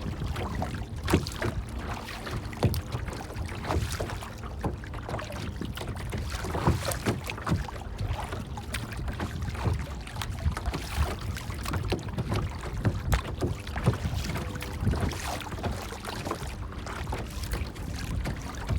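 Water lapping and splashing in many small irregular splashes over a steady low rumble.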